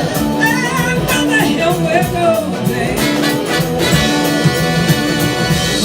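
Live band playing an instrumental passage between sung lines of a soul-blues song, with brass in the arrangement.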